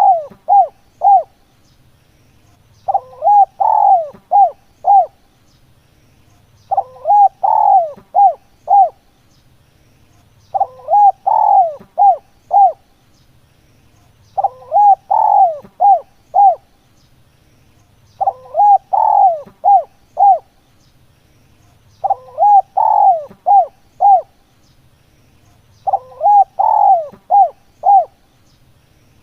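Spotted dove (tekukur) cooing: the same phrase of five or six notes, the last few short and evenly spaced, repeats about every four seconds.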